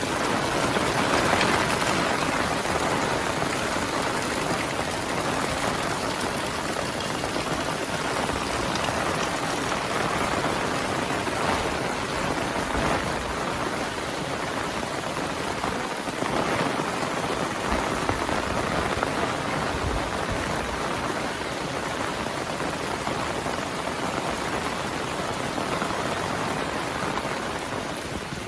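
Heavy monsoon rain falling steadily, a dense even hiss of drops on the ground and surfaces.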